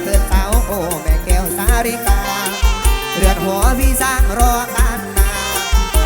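Isan mor lam band playing an instrumental passage: a steady, driving kick-drum beat under a lead melody with bending, wavering notes.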